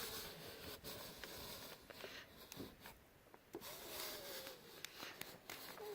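Faint rubbing with scattered light clicks: a hand tool smoothing vinyl sticker lettering flat onto the back of a car.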